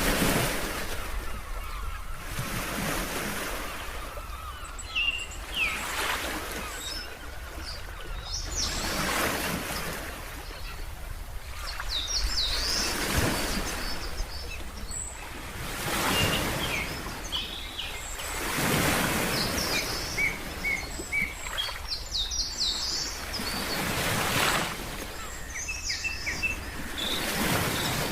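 Ocean waves washing in every few seconds, with many small birds chirping over the surf.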